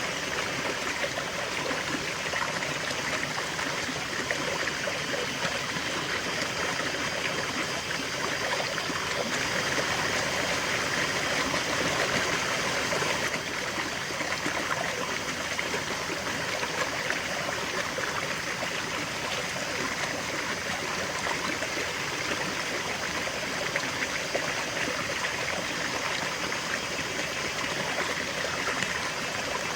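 River water flowing steadily over stones, a continuous rushing and babbling.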